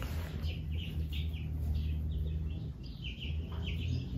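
Small birds chirping in quick, repeated short notes, over a steady low hum.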